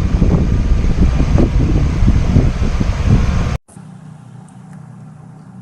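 Loud outdoor rumble with wind buffeting the microphone and scattered knocks. It cuts off abruptly about three and a half seconds in, leaving a quiet, steady low hum.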